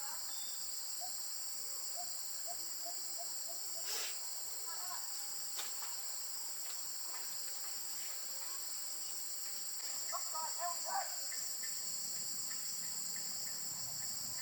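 Steady high-pitched insect chorus, with a sharp click about four seconds in and a brief run of short chirps about ten seconds in.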